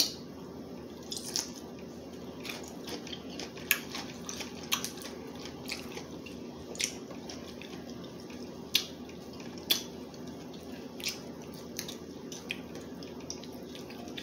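Close-miked eating of crab legs: wet smacking and sharp little clicks from chewing and handling the shells, coming irregularly about once a second over a steady low hum.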